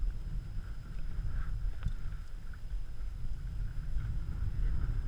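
Wind rumbling steadily on the microphone out on open water from a kayak, with one light knock about two seconds in.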